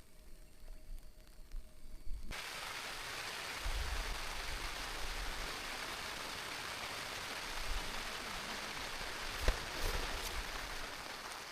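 Steady rain hiss that starts suddenly about two seconds in, after a quieter stretch, with a few light knocks near the end.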